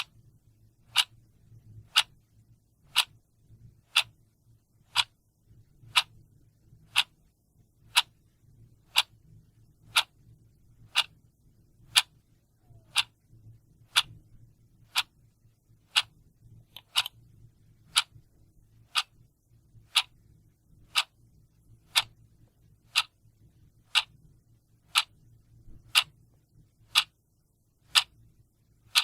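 A clock ticking steadily at about two ticks a second, each tick a sharp, even click.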